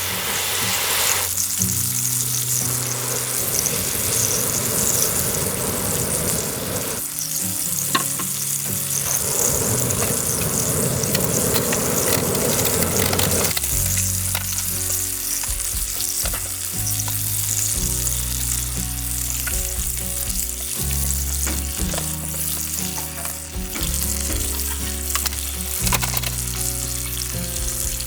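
Bacon-wrapped camembert frying in an iron pan over a wood fire, sizzling steadily.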